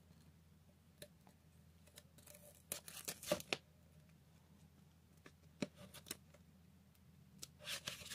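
Paper poster rustling and crinkling as it is handled, in short bursts with light taps and clicks between them; the rustling grows louder near the end.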